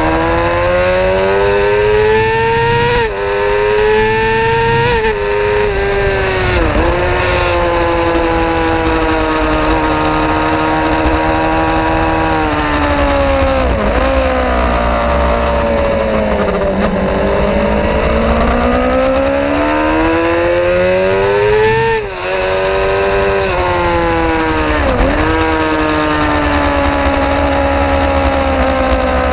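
Suzuki GSX-R 750's inline-four engine heard from on board the bike at track speed: revs climb with brief dips at gear changes a few seconds in and again near the end, and fall away in between as it slows for corners, over a steady low wind rumble.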